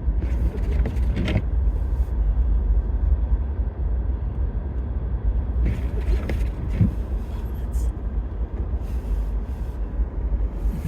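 A car driving, with a steady low rumble of engine and road noise heard from inside the cabin. A few short hissing sounds come over it.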